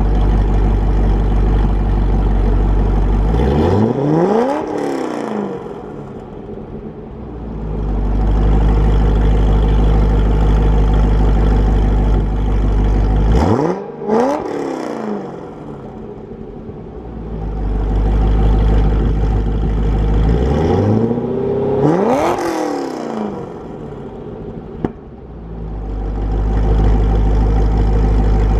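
Supercharged 2005 Chevrolet C6 Corvette's 6.0-litre LS2 V8, with a Magnuson supercharger, SLP headers, X-pipe and Corsa Extreme exhaust, idling with a deep note. It is blipped three times: the pitch climbs quickly and falls back to idle each time.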